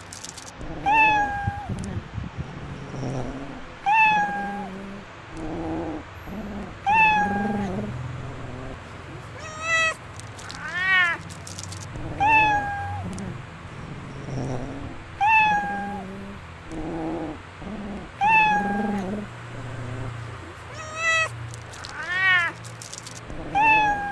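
Domestic cat meowing over and over, a short meow about every three seconds, with two longer meows that rise and fall in pitch.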